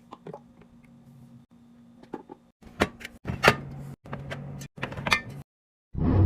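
Sharp clicks and knocks of containers and packaging being handled and set into a fridge, in short segments with abrupt cuts between them, over a low steady hum. A loud dull thud near the end.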